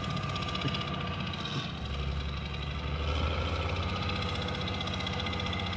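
Diesel engine of a heavy construction machine running steadily at idle, with an even rapid pulse, picking up slightly about two seconds in.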